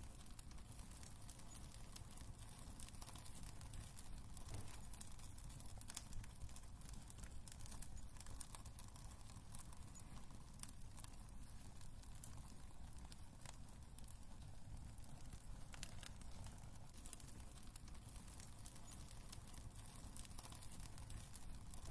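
Wood fire crackling in a fireplace: scattered sharp pops and snaps over a low, steady rumble of burning.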